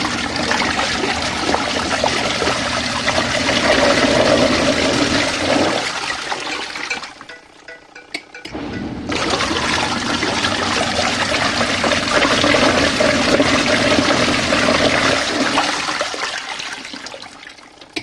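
Compact RV washing machine churning water in its tub: a loud rushing, sloshing noise with a low hum under it, in two long spells broken by a short pause about seven seconds in, fading near the end.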